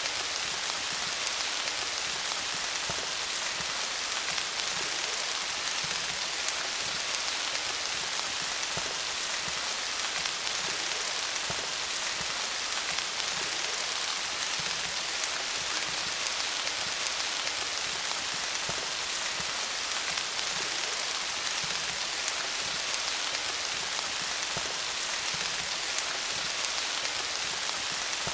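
Steady rain falling on leaves: a dense, even patter of many drops.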